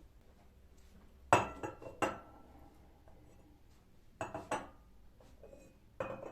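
Tableware clinking: sharp knocks of dishes and cutlery with short ringing, in three clusters, about a second in, around four seconds and near the end.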